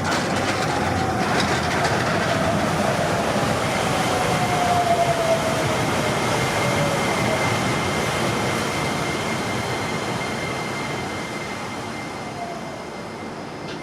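Train running past, loud, with a slowly falling whine, then fading away over the last few seconds.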